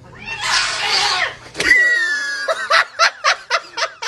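A short hissing noise, then a person laughing in quick repeated bursts, about four a second, in the second half.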